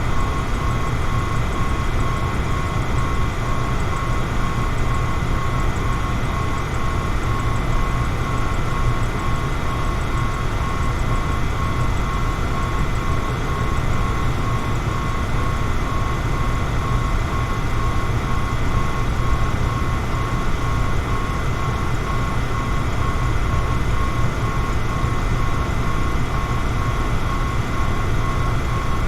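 Electric fan running steadily: a low, even whoosh of moving air with a faint steady whine above it.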